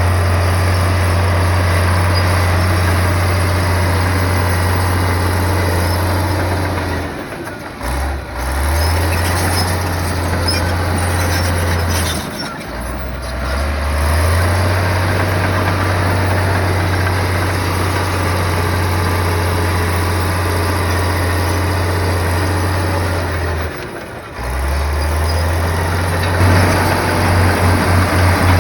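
Komatsu bulldozer's diesel engine running with a steady low drone. It dips briefly three times and takes on an even throbbing pulse near the end.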